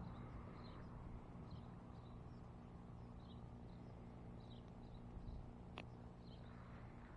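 A small bird chirping faintly, short high calls repeating about once a second, over a low steady hum, with a single sharp click about six seconds in.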